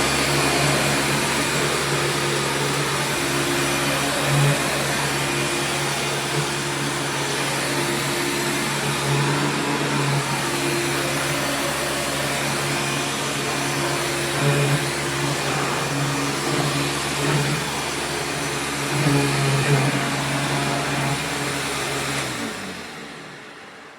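A vacuum cleaner motor runs steadily with a strong hum and a rushing airflow. About 22 seconds in it is switched off and winds down to a stop.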